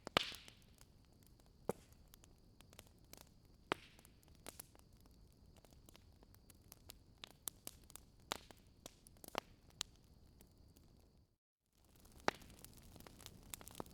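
Wood fire crackling: irregular sharp pops and snaps over a soft hiss, with a faint steady high whine in the background. The sound cuts out completely for a split second about eleven seconds in, then the crackling resumes.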